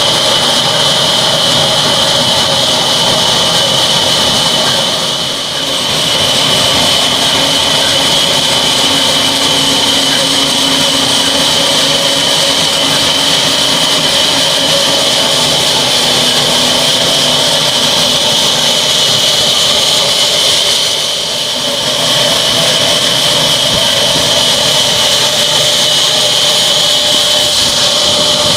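Old stationary diesel engine running loudly and steadily, with a strong high hiss over the engine noise. The sound dips briefly twice.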